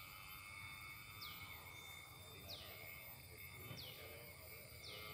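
A bird repeating a short, high, falling whistle four times, evenly about every second and a quarter, over a faint steady high-pitched background drone.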